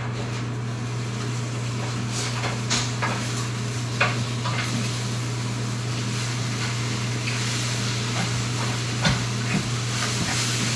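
Eggs frying in a pan, sizzling, with a few sharp clicks and knocks of a utensil against the pan, over a steady low hum.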